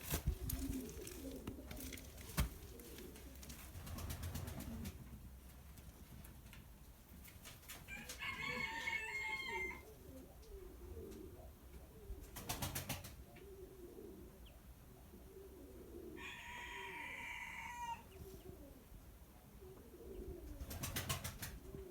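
Domestic pigeons cooing softly and repeatedly. Twice, about eight and sixteen seconds in, another bird gives a longer, higher call lasting under two seconds, and a couple of short noisy bursts come in between.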